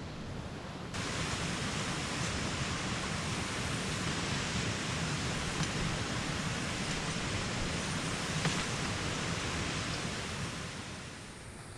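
Steady rushing hiss of typhoon rain and wind. It starts abruptly about a second in and fades near the end.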